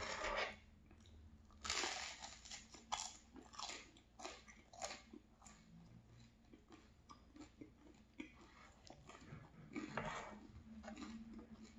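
Close-up chewing of crusty French baguette dipped in tomato sauce: irregular crunches, the loudest about two seconds in, then smaller ones.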